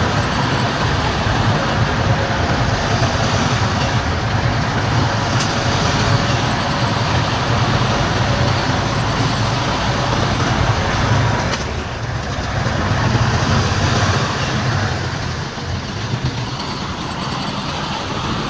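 Diesel engine of heavy earthmoving machinery, a bulldozer or dump truck, running steadily with a low drone that eases briefly twice in the second half.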